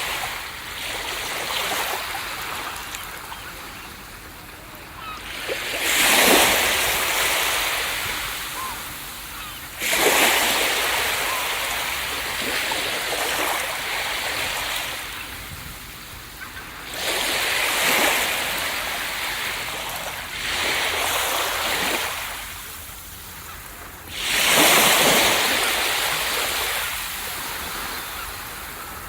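Ocean waves breaking on a beach: a rushing surge builds suddenly, then slowly washes back and fades, about five times, every four to seven seconds.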